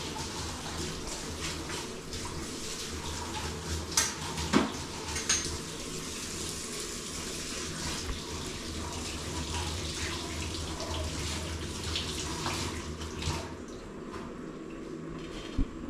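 Water running from a tap into a sink, with a few sharp knocks about four to five seconds in and again later; the running water dies away near the end.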